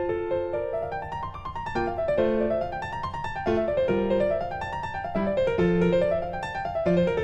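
Background piano music: single notes played in rising and falling runs over sustained lower notes.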